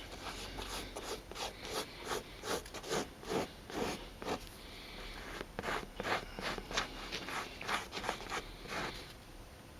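Leather filler being spread over cracked chair leather: repeated short rubbing scrapes, about two strokes a second, with a brief lull about five seconds in.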